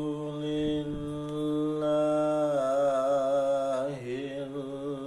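Melodic Quran recitation in tajwid style: a single voice draws out "al-hamdu lillah" in a long held note that begins to waver and turn in pitch about halfway through.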